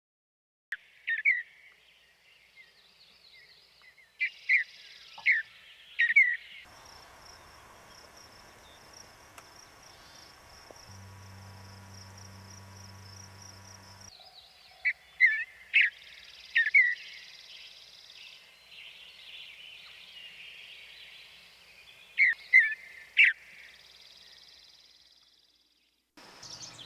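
Wild bird giving short, sharp call notes in groups of two or three, with pauses of several seconds between groups.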